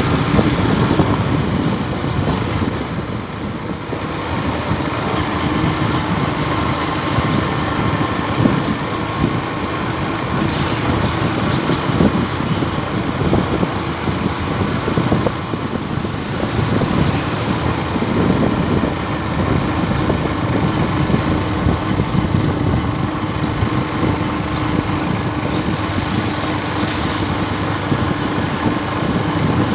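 Motor vehicle on the move: steady engine and road noise with a low hum.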